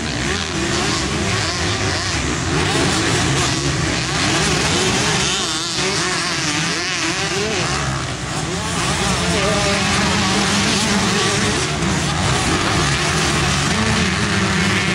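Several motocross bikes racing, their engines revving up and down and overlapping as they pass.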